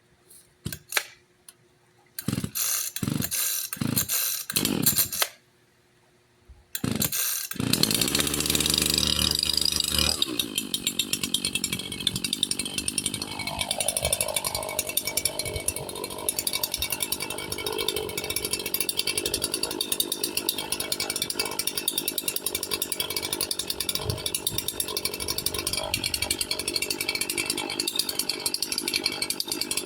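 Echo CS-4910 two-stroke chainsaw, its muffler modified (stage 1), being pull-started with the chain brake on after choking. Several pulls of the starter rope come about two seconds in, then a pause. It fires on another pull at about seven seconds and runs fast at first, then its speed falls and it settles into a steady idle.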